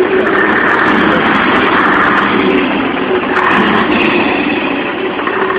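Scania R500 truck's V8 diesel engine running loudly and steadily.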